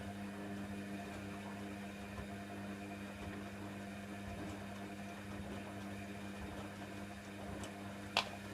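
Hoover Nextra washer dryer humming steadily during its rinse stage, with a sharp click near the end.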